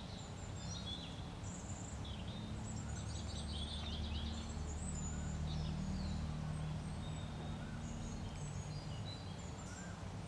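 Small birds chirping and twittering over a steady low background hum.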